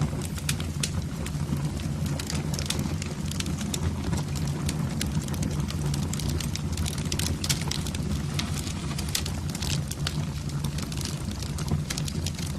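Wood fire burning in a fireplace: frequent irregular crackles and pops over a steady low rumble.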